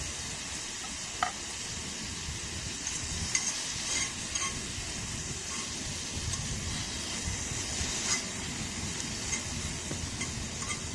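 Food sizzling in a frying pan, a steady high hiss, with a few light sharp clicks.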